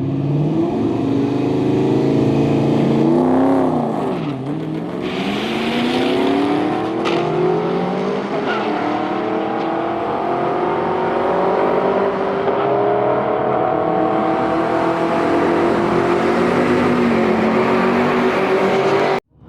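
2002 Pontiac Trans Am WS6's V8 with a mild cam, long-tube headers and dual exhaust, pulling hard with its pitch climbing in long sweeps and dipping briefly at each shift. The sound cuts off suddenly near the end.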